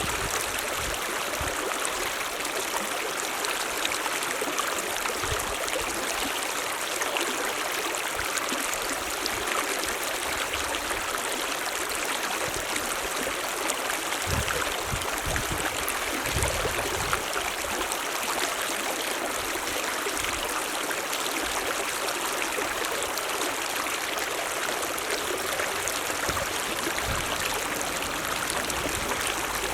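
Mountain stream running with a steady rush and splash, unchanging throughout.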